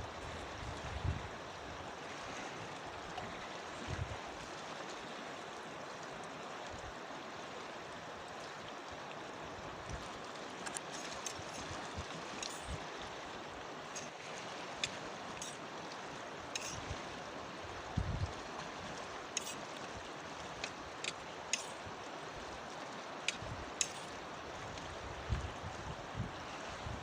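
Steady rush of a flowing mountain river, with scattered short sharp clicks and a few low knocks from about ten seconds in.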